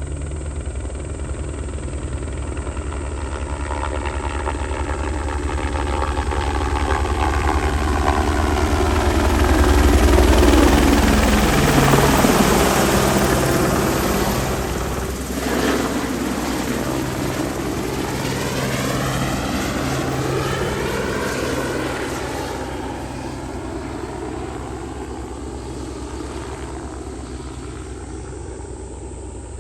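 Crop-spraying helicopter flying a low pass: rotor and engine noise grows louder, peaks about a third of the way in, then fades as it moves away.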